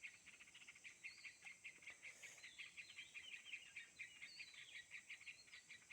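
Faint outdoor birdsong: many small birds chirping in a steady stream of short, high calls with some quick rising and falling notes.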